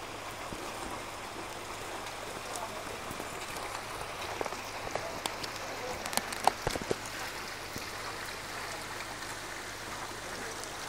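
Steady hiss of heavy rain falling on flowing typhoon floodwater, with a few sharp clicks and knocks a little past the middle.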